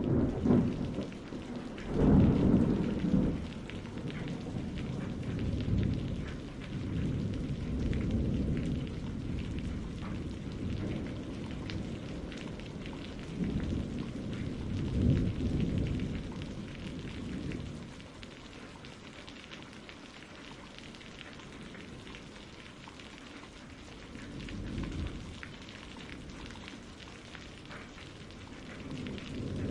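Steady rain with rolling thunder rumbling under it. The loudest rumble comes about two seconds in, another swells near the middle, and a softer one comes near the end.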